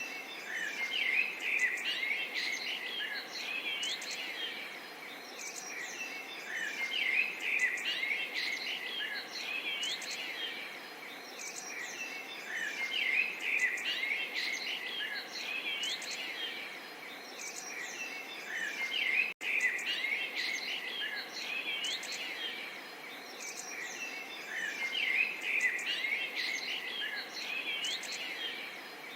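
Many small songbirds chirping and twittering over one another, above a soft, steady murmur of trickling water. The sound drops out for a split second about two-thirds of the way through.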